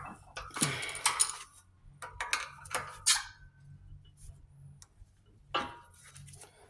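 Metal tools and parts clinking and clicking on a workbench, in a few scattered bursts, over a faint steady low hum.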